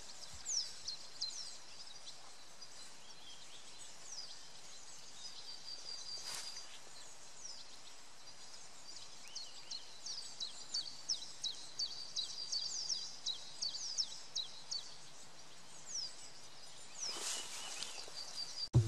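Small birds chirping and trilling over a faint steady hiss, with many short, high, falling calls repeated throughout.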